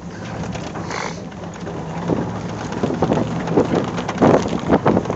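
A towed john boat sledding along, with an engine hum underneath and dense, irregular pattering and knocking of thrown-up spray or debris hitting the boat, growing louder from about two seconds in.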